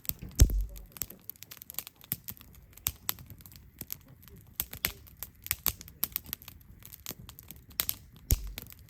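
Wood campfire crackling, with frequent irregular sharp pops and snaps. Two heavier, deeper thumps stand out, one about half a second in and one near the end.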